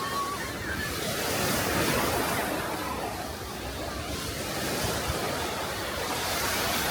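Small sea waves washing onto the shore, the rush of surf swelling twice and falling back.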